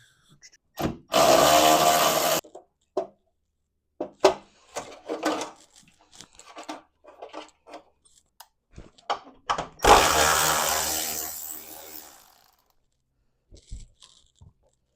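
Cordless power tool, drill or impact driver, run in two bursts while loosening ground and mounting bolts on a truck's front end. Small metal clicks and taps come between the bursts, and the second burst fades away over a couple of seconds.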